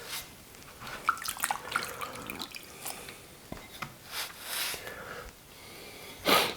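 Water splashing and dripping as a glazed ceramic cup is wiped wet by hand, with small scattered clicks and rubs and a louder swish near the end.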